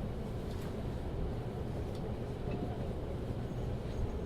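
Cabin of a JR Central 383 series limited express train running along the line: a steady low rumble with a few faint clicks.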